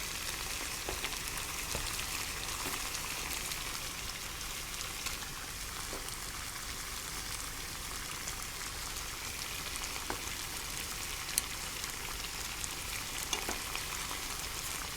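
Pot of salted water boiling: a steady bubbling hiss with scattered small pops.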